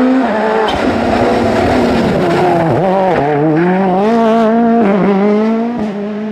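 Rally car engine revving hard, its pitch dipping sharply and climbing back three or four times in the middle, then running more evenly and fading a little near the end.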